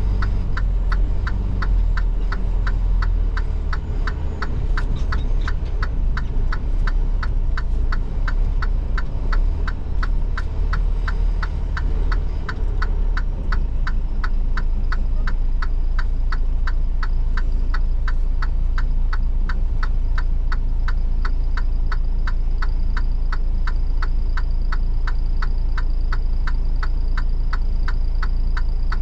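Semi truck's turn signal ticking evenly, about three ticks a second, inside the cab over the low steady rumble of the truck's diesel engine.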